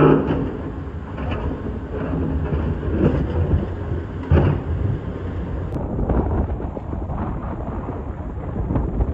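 Excavator digging in rock: the diesel engine runs under load while the bucket scrapes and knocks against stones, with a loud knock about four seconds in.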